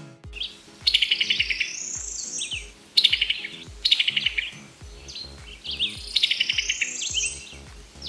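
Summer tanager calling: several bursts of rapid, staccato chattering notes, some followed by higher sliding notes.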